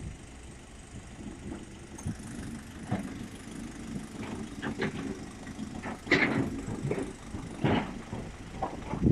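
Low, steady rumble of a vehicle engine in the background, with brief faint voices now and then.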